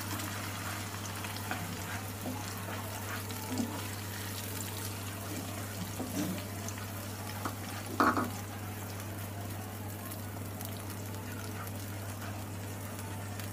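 Tomato and onion paste sizzling as it fries in hot oil in a non-stick pan, stirred with a wooden spatula, with a few light scrapes and one louder knock about eight seconds in. A steady low hum runs underneath.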